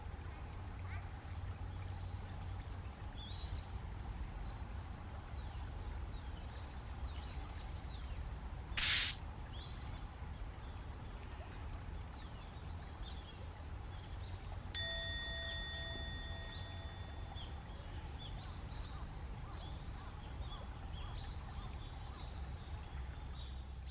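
Outdoor background with many faint, short bird chirps scattered throughout. A brief whoosh comes about nine seconds in, and a bell-like ding rings out and fades about fifteen seconds in.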